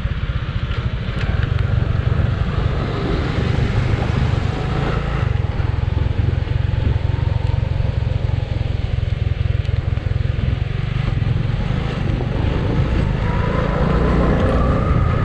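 Motorcycle engine running steadily while riding, with a haze of wind noise over it; its pitch rises slightly near the end.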